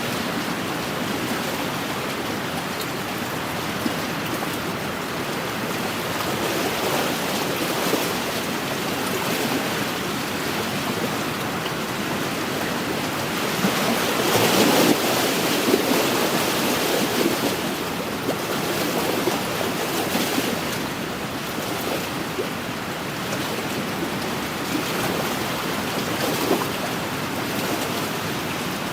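Small wind-driven waves lapping on a lakeshore: a steady wash of water with wind, swelling louder for a few seconds about halfway through.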